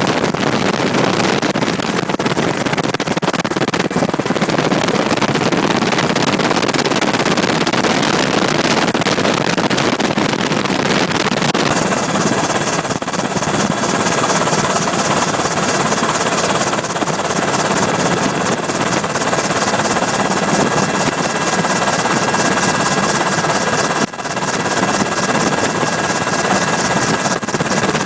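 Steady loud noise of a helicopter in flight, heard from on board. About midway through, thin high whining tones and a fast, even beat come in over the noise, and they hold for the rest of the stretch.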